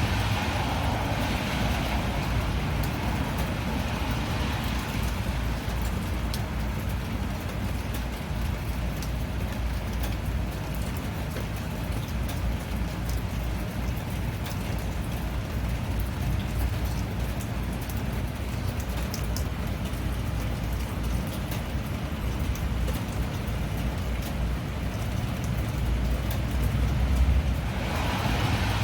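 Steady rain: a continuous even hiss with a deep rumble underneath and scattered sharp ticks of single drops.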